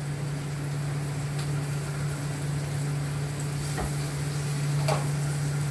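Onion, green chilli and spice masala, with freshly added ginger and garlic, sizzling steadily in hot oil in a pan. A few faint clicks from the stirring spoon, and a steady low hum underneath.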